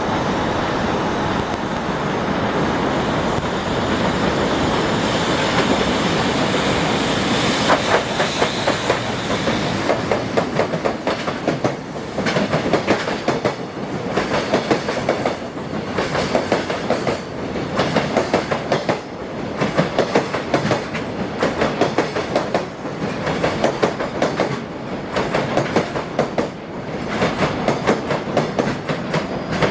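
Container freight train running past, with a steady rumble at first. From about twelve seconds in, the wagon wheels clack over rail joints in repeated groups a second or two apart.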